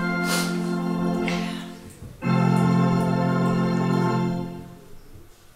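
Yamaha Electone HS-7 electronic organ playing held chords: one chord sustained for about two seconds, then after a brief break a second, fuller chord held for about two seconds before fading away near the end.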